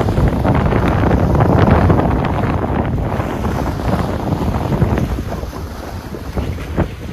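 Strong wind buffeting the microphone, a loud rumbling rush that eases a little after about five seconds.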